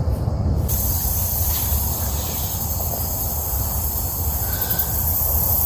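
Insects trilling steadily at a high pitch over a continuous low rumble, with the insect sound setting in abruptly less than a second in.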